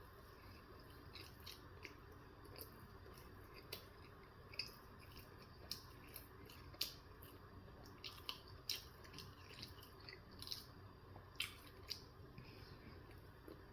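Quiet, close-up chewing of a steak, egg and cheese bagel sandwich: irregular wet mouth clicks and smacks, a few sharper ones among many soft ones.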